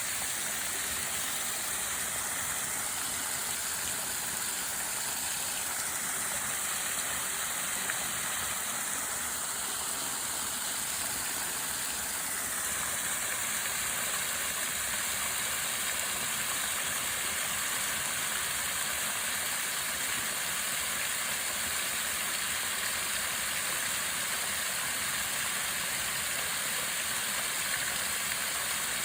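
Steady rushing hiss of running water, even in level throughout, with a faint shifting higher texture during the first dozen seconds.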